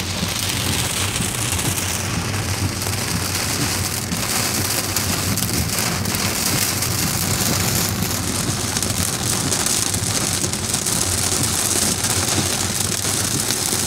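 Heavy rain pouring on a car's windshield and roof, heard from inside the car: a steady, loud hiss of the downpour.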